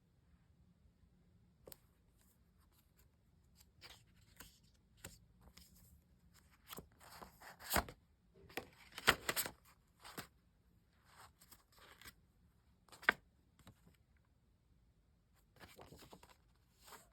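Packaging being torn open by hand: irregular tearing and rustling with sharp clicks, busiest about halfway through.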